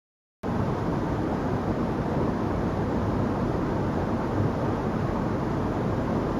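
Waterfall: a steady, deep rushing of falling water that cuts in about half a second in and holds evenly.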